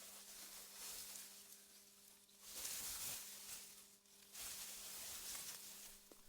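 Soft wind blowing through meadow grass, a faint hiss that swells in gusts and dies back, with the strongest gust about halfway through. A faint steady hum runs underneath.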